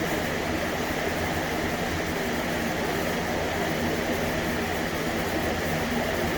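A steady machine hum with a constant hiss, unchanging in level.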